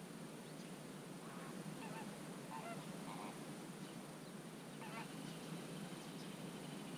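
Waterbirds giving short honking calls, about five of them between one and five seconds in, over a steady low background rush.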